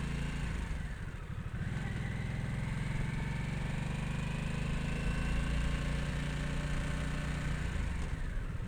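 Harley-Davidson Nightster's V-twin engine running under way, easing off briefly about a second in, then pulling steadily with its pitch slowly rising.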